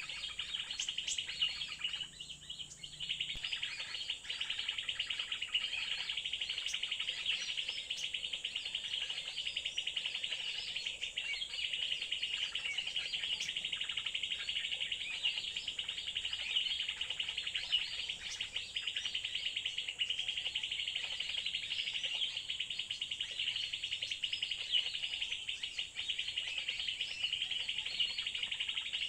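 Dense, continuous high-pitched chirping of birds, with an insect-like buzz mixed in, going on without a break.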